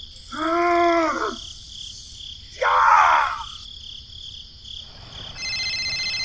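Crickets chirping in steady pulses, with two short voice sounds, a groan about half a second in and a louder cry around three seconds. Near the end a steady electronic phone tone starts.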